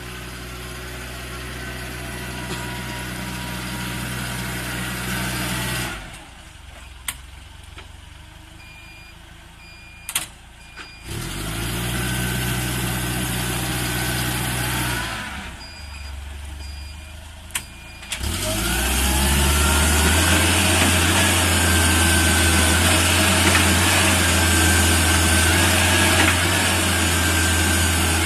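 Dual-fuel gasoline/LPG forklift engine idling, then shut off about six seconds in, leaving a quieter stretch with a few clicks and short beeps. It is restarted around eleven seconds and drops again near fifteen seconds. It starts once more around eighteen seconds and runs louder and steady.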